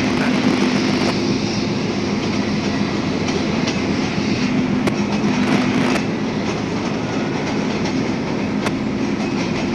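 Diesel freight locomotives running steadily as they haul a train of loaded flatcars past, a constant low engine drone over the rumble and clatter of wheels on rails, with a few sharp clicks.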